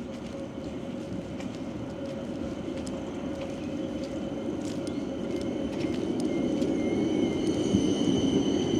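A vehicle's rumble growing steadily louder as it approaches, with thin high whines coming in over the second half and light clicks throughout.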